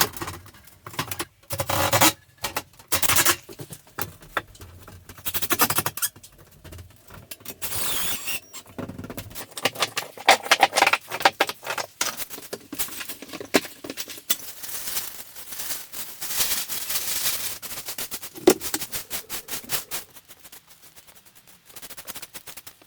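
Hand renovation work: irregular clinks, knocks and scrapes of tools and materials, with several longer rasping scrapes.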